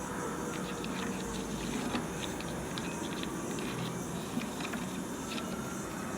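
Sheet of paper rustling and crinkling as it is folded and creased, short scattered crackles over a steady background hiss.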